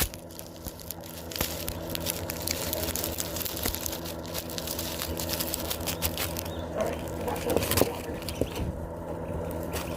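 Chickens pecking at a phone, a patter of quick, irregular taps and clicks, over a steady low hum.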